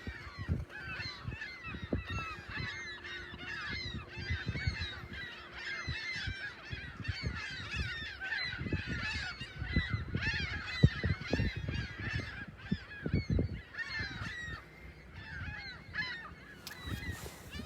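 A flock of gulls calling constantly, many short, overlapping cries, with low irregular rumbling underneath.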